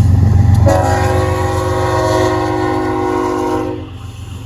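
The lead BNSF diesel locomotive's air horn sounds one long blast of about three seconds, starting about a second in. It is a steady chord of several tones over a low rumble.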